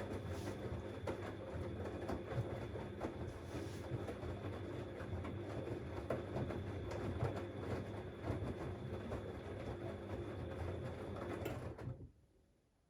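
Siemens Extraklasse XLS 140 A washing machine running, a steady hum with a busy rattling clatter from the drum and its load. It cuts off abruptly about twelve seconds in.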